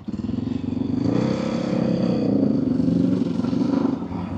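Motorcycle engine running with its stock exhaust fitted while riding; the revs rise a little and then fall back about halfway through.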